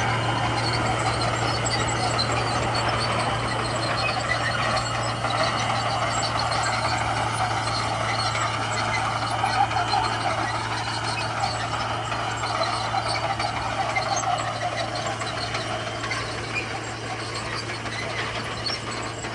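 Komatsu bulldozer at work spreading gravel: its diesel engine runs with a steady low drone, with a noisy clatter of faint clicks over it, easing off a little near the end.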